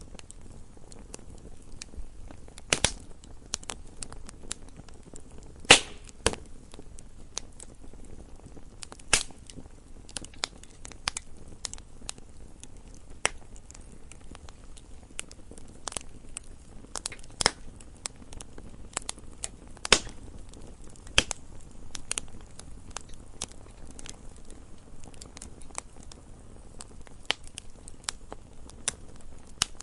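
Campfire burning wood, crackling: irregular sharp snaps and pops over a low steady hiss, with a few louder pops scattered through.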